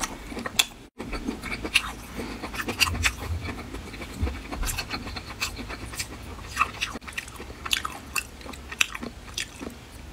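Close-up chewing of marinated shellfish, with many short, irregular wet smacks and clicks of the mouth.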